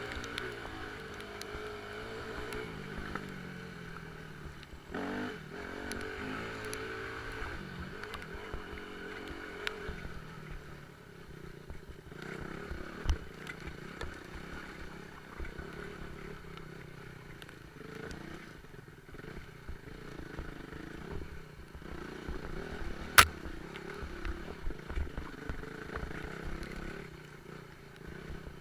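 Motorcycle engine running and revving up and down as the bike is ridden, with a sharp knock about 23 seconds in.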